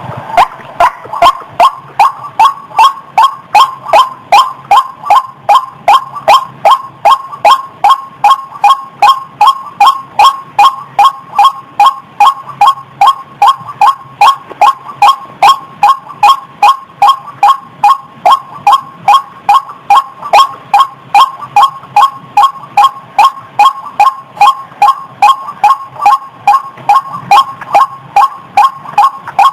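White-breasted waterhen calling: a loud, even series of short, repeated 'ruak' notes, about two a second.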